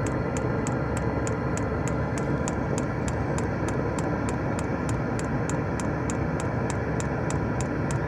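Diesel heater running with a steady fan whir, its fuel pump ticking rapidly and evenly at about five clicks a second. It is pumping without fuel reaching the new fuel line, as the owner finds when he checks the line.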